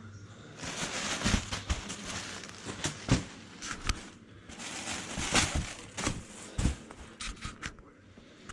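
Packaging rustling and crinkling as hands dig through an opened cardboard shipping box, with sharp clicks and knocks now and then.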